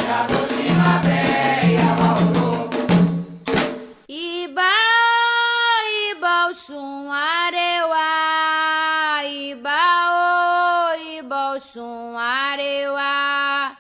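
Candomblé chant for Xangô: a group of voices singing over drums stops abruptly about four seconds in, and a single voice carries on unaccompanied in long held notes.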